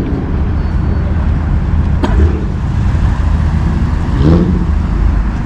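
Car engines running at a car meet: a low, steady rumble with a sharp click about two seconds in.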